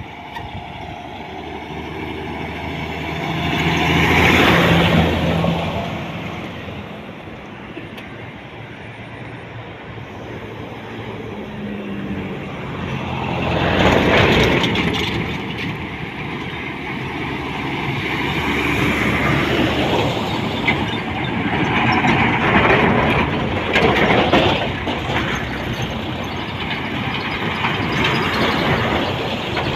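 Highway traffic: heavy trucks and buses passing one after another, each pass swelling and fading, the loudest about four and fourteen seconds in.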